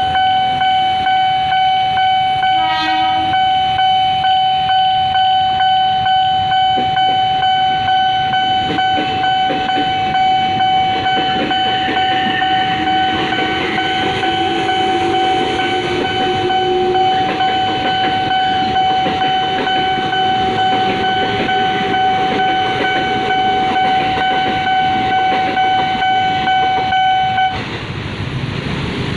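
Level-crossing warning signal sounding a steady, regularly pulsing tone while a train runs over the crossing, wheels clattering on the rails. There is a short toot about three seconds in, and the warning tone cuts off suddenly near the end.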